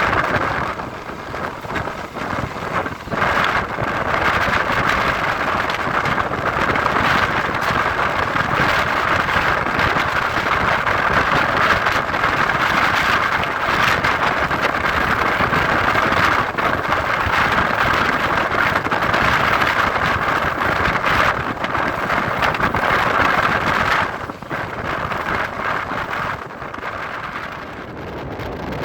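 Moving EMU electric local train heard from on board: a steady rush of wind and running noise from the wheels on the track, easing somewhat near the end.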